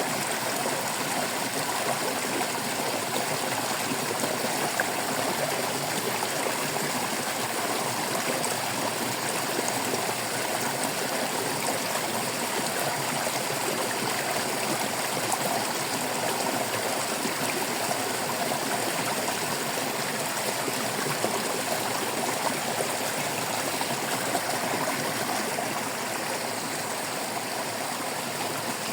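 Babbling water flowing steadily over stones in a shallow stream.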